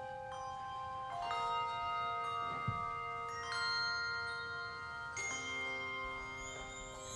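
Handbell choir ringing chords of bells, each chord struck together and left to ring on with a long, slow fade, new chords coming about a second, three and a half and five seconds in. A brief low thump sounds a little before the middle.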